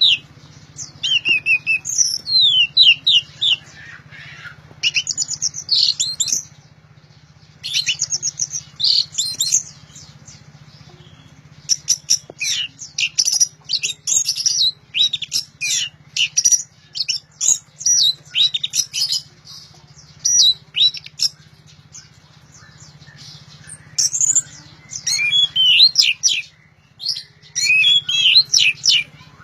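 Orange-headed thrush singing loudly in bursts of rapid, varied whistled phrases, broken by short pauses.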